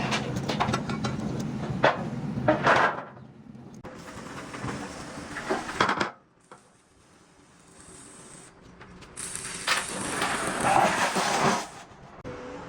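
Repair-shop noise with a few sharp knocks, in short clips joined by abrupt cuts.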